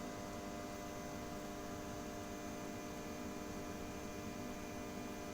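Steady electrical hum with several steady tones from a running homemade lamp heater, its power supply and fan.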